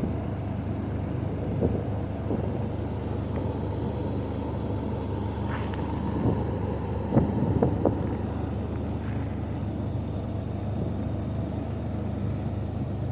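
Jeep engine idling steadily, with a few short clicks about seven seconds in.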